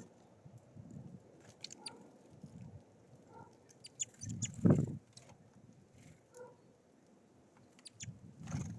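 Small songbirds at a feeder: scattered short high chirps with soft tapping and scrabbling on the feeder, and one louder low thump about halfway through.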